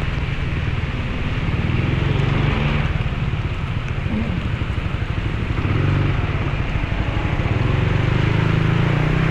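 Motorcycle engine running under way, under a steady rush of wind and rain noise. The engine note eases off for a couple of seconds in the middle, then pulls strongly again about six seconds in.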